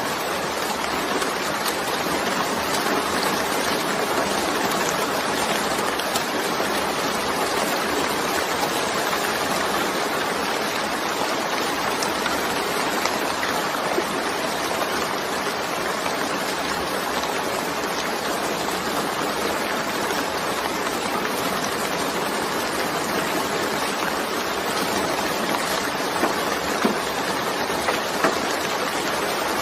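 Steady rain falling in a continuous hiss, with a few sharper drop impacts standing out near the end.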